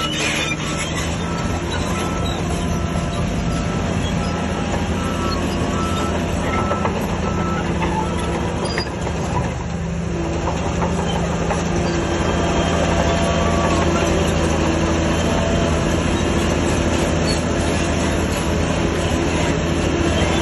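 Shantui DH17C3 crawler bulldozer's diesel engine running under load, its steel tracks clattering. A reversing alarm beeps steadily for the first eight seconds or so. The machine grows louder past the middle.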